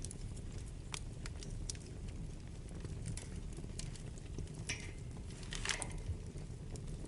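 Wood fire burning in a fireplace: a steady low rumble of the flames with scattered sharp crackles, and two louder pops about two-thirds of the way through.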